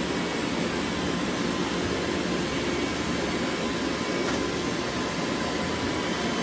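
Robot vacuum cleaners running: a steady whirring hum with faint steady higher tones over it.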